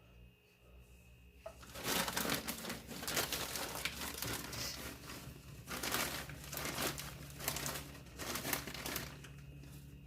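Plastic packaging crinkling and rustling as it is handled, in irregular bursts starting about a second and a half in.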